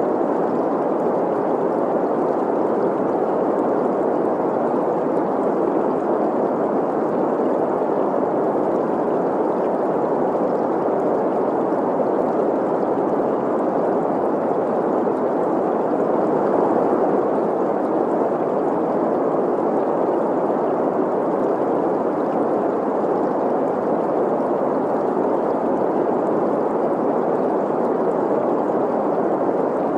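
Steady green noise, an even hiss centred in the middle of the range, blended with the sound of a flowing stream, unchanging throughout.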